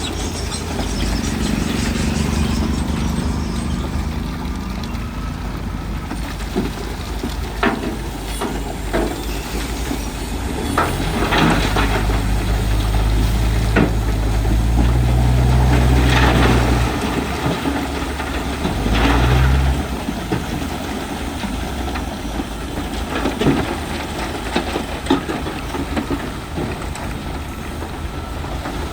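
Heavy diesel earthmoving machinery, a crawler bulldozer and dump trucks, running steadily. The engine note swells under load for several seconds around the middle and again briefly soon after. Scattered knocks and clatter of rock are heard throughout.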